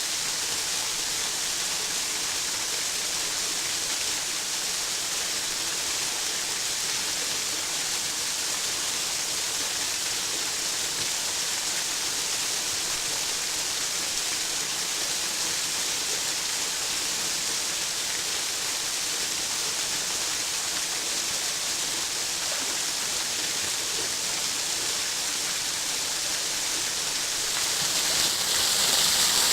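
Waterfall's falling water making a steady, even rush, with the thin flow of a very dry season. The rush grows louder and brighter near the end.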